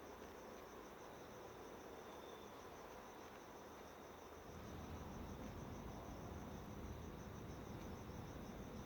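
Faint, steady high-pitched pulsing trill of an insect, over a low background rumble that gets louder about four and a half seconds in.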